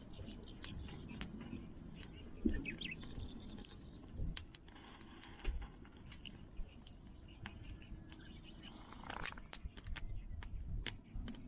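Wood fire crackling, with irregular sharp pops and clicks, while small birds chirp now and then in the background.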